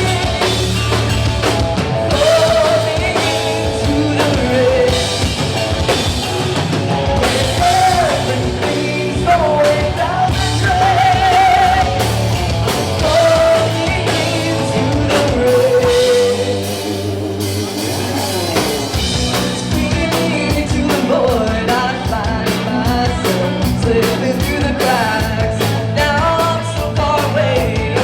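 Live rock band playing a song, with a singer's voice over drum kit, bass and guitars. The low end drops out briefly about two-thirds of the way through, then the full band comes back in.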